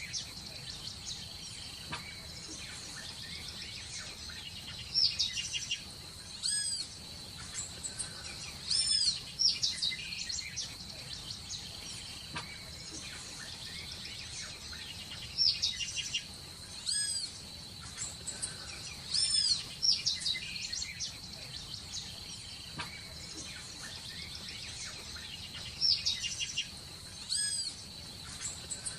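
Birds chirping in short bursts of high, arching calls every second or two, over a steady high-pitched hum.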